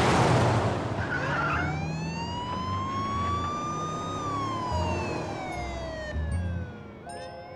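Police siren wailing: one slow rise in pitch over about three seconds and a fall over about three more, beginning to rise again near the end. A loud rush of noise peaks right at the start.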